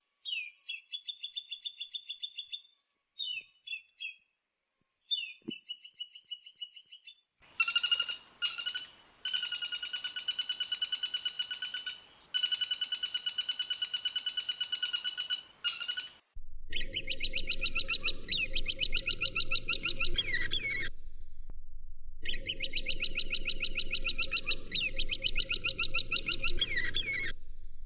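Woodpecker calls: rapid rattling trills, one after another with short breaks between them. The last two rattles sound over a low steady hum.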